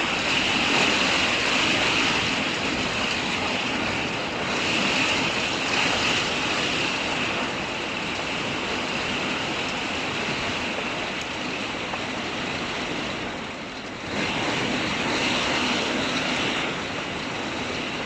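Heavy rain pouring down, a steady dense hiss that eases briefly about fourteen seconds in before coming back just as hard.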